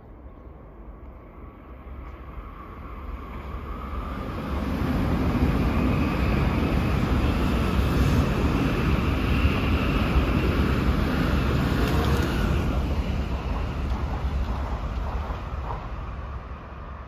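N700-series Tokaido Shinkansen train passing at speed below: a rushing noise over a low rumble that swells over a few seconds, holds for several seconds, then fades away near the end.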